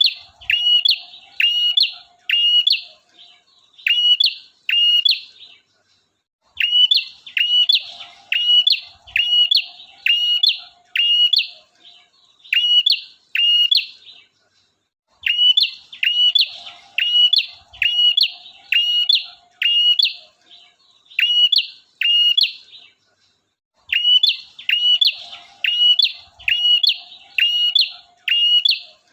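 Male prenjak (prinia) singing a loud, rapid series of sharp, falling chirps, about two a second, in phrases of several seconds broken by short pauses, with a faint buzzy chatter at the start of each phrase. The song repeats as a looped lure call.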